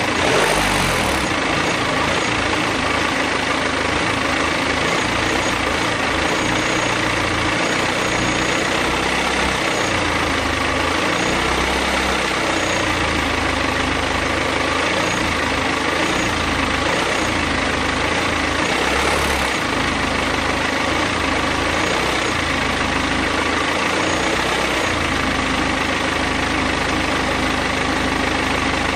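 BMW F31 316d's four-cylinder diesel engine idling steadily, with the unexplained noise that the owner suspects is a fault.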